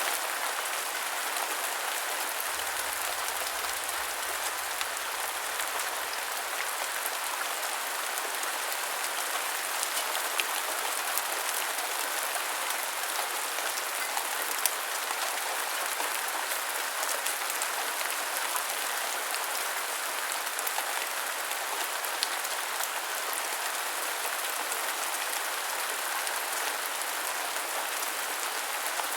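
Steady rain falling, an even hiss of drops with a few sharper drop hits standing out now and then.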